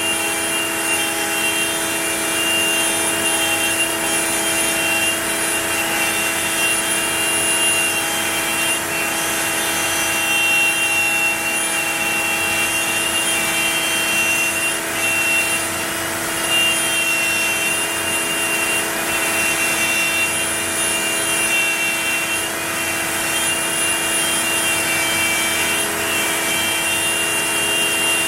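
OneFinity CNC's router motor running steadily with a high whine while it machines a wooden board.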